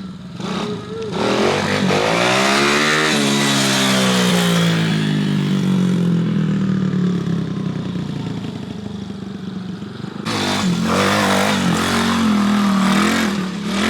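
Single-cylinder four-stroke engine of a 125cc semi-automatic Coolster pit bike under hard acceleration: about a second in the revs climb quickly, then the pitch eases back down. About ten seconds in the engine comes on hard again.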